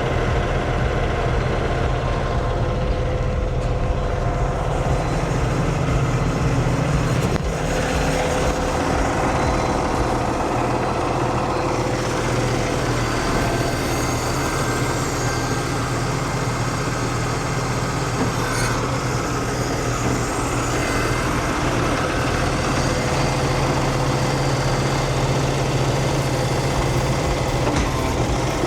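Cummins diesel engine of a heavy International truck running steadily at idle, with the PTO engaged. A single sharp click or knock comes about seven seconds in.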